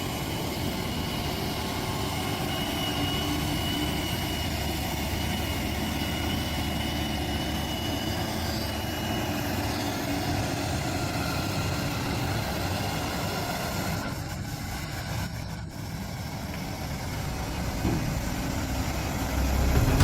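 Heavy semi-truck's diesel engine running steadily as it climbs a steep hairpin bend, with road noise; it grows louder near the end.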